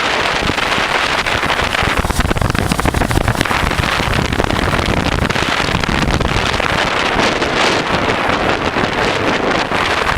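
Riding on a 1988 Honda Transalp: heavy wind buffeting the microphone, with the 600 cc V-twin engine running steadily at cruising speed underneath.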